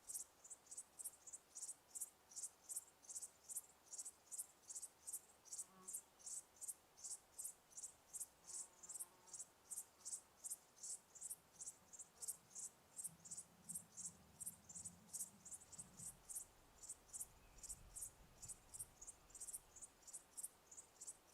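An insect chirping in an even, unbroken rhythm of short high-pitched chirps, about two to three a second, with a faint low rumble for a few seconds in the second half.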